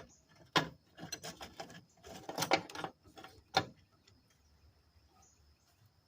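Hand tools clicking and clanking against metal while bolts are worked loose on an old truck engine: a string of sharp metallic clicks, some in quick runs, over about four seconds, then it stops.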